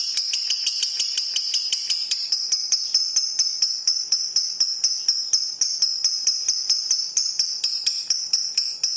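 Lovebird singing one long unbroken trill of rapid, shrill, high chirps, about five or six a second. This is the sustained chattering song that contest lovebirds are judged on.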